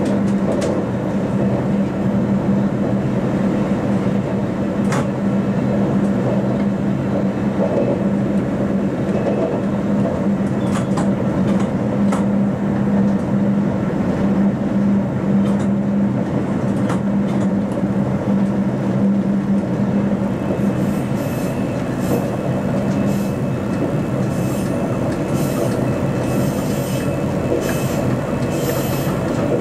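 SBB RBDe 560 'Domino' electric multiple unit heard from its cab while running: a steady rumble of the running gear with a steady hum and scattered clicks of wheels over the rails, the hum fading out about two-thirds of the way through. In the last several seconds come repeated short high squeals, wheels squealing in a curve.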